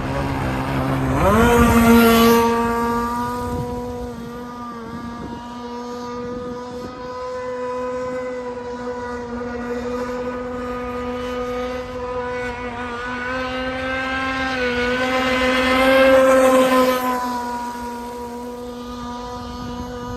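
Phantom 145 model boat's Tiger King 26 open-port engine revving up sharply about a second in, then running steadily at high revs. It grows louder twice, near the start and again near the end, as the boat passes close.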